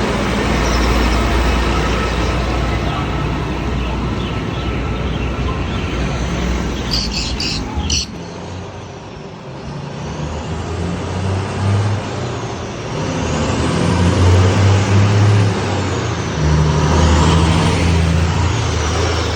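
Road traffic with car and truck engines running close by: a deep rumble in the first half, then engines swelling louder twice in the second half. A high whine rises and falls several times in the second half.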